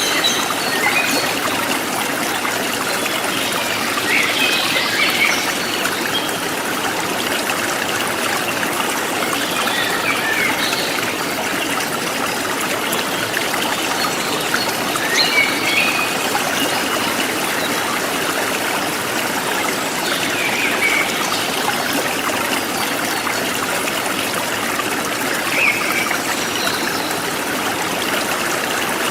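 Forest stream running steadily over rocks, with short bird chirps sounding now and then above the rush of water.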